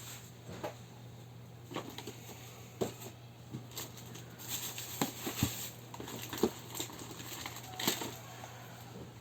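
Scattered light clicks and taps of objects being handled, irregular and louder between about four and eight seconds in, over a steady low hum.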